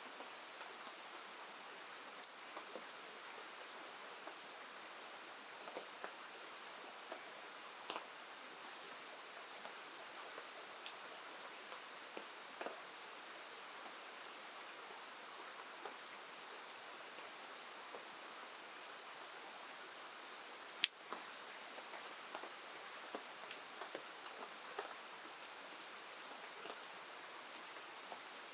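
Steady rain falling, with scattered sharp ticks of drops; one louder tick about two-thirds of the way through.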